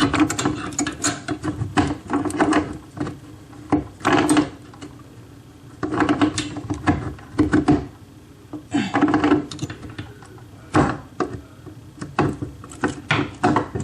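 Irregular clicking, knocking and scraping of hands and tools on a bathroom faucet's fittings under the sink as its mounting nuts are tightened, coming in clusters with short pauses.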